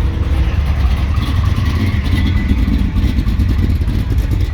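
A motor vehicle's engine running steadily with a low rumble, typical of a classic car idling.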